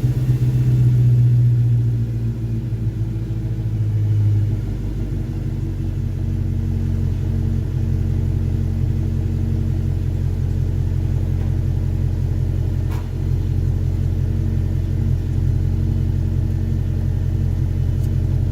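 2011 Audi S5's naturally aspirated 4.2-litre V8 idling on a cold start through an AWE Tuning Track Edition exhaust with resonated downpipes. The idle drops in pitch about four to five seconds in, then holds a steady, low rumble.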